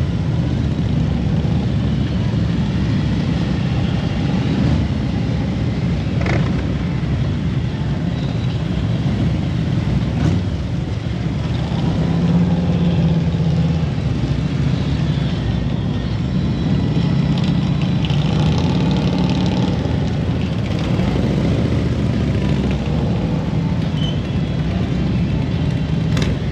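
Motorcycle engine running steadily at road speed, with the engine note shifting up and down a little as the bike rides along.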